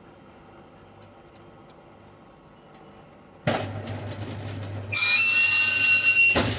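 Electric arc welding: after a quiet start, the arc strikes suddenly about three and a half seconds in, a noisy crackle over a steady low mains hum. About five seconds in it gets louder, with a high ringing whine, and it drops off just before the end.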